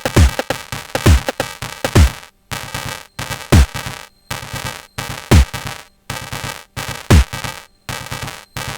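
Sonic Potions LXR-02 digital drum machine playing a techno pattern. Kick drums with a falling pitch come about once a second for the first two seconds, then half as often, with choppy, stop-start percussion between them.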